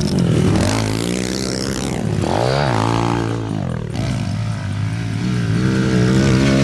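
A small motorbike engine runs and revs. Its pitch wavers, falls and rises again about two seconds in, then holds fairly steady.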